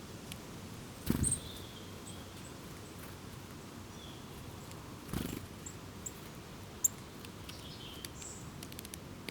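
Small wild birds calling: scattered brief, high chirps and a few thin notes over a steady low background rumble. Two short low muffled rumbles stand out, about a second in and just after five seconds.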